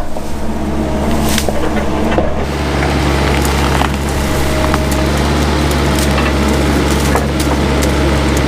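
Mini excavator engine running steadily under load while brush and small trees crack and splinter as they are torn out, with scattered sharp snaps over the hum.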